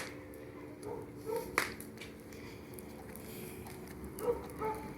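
Bonfire of wood and old rubbish crackling, with two sharp pops, one right at the start and one about a second and a half in, over a steady faint hum and brief faint voices.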